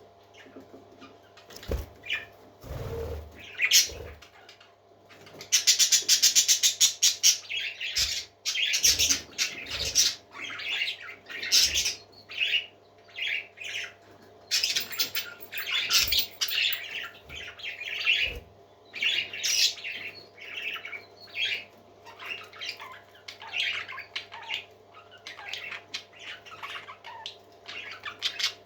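Parrots squawking and chirping in many short, high calls, with a quick rattling run of calls about six seconds in. A few dull low thumps are mixed in.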